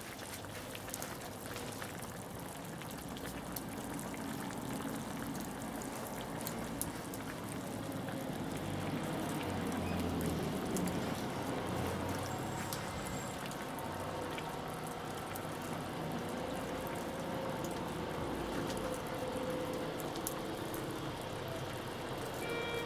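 Wood fire crackling with a pot of pot-au-feu simmering over it: a steady sputtering, watery bubbling, with many small sharp crackles throughout.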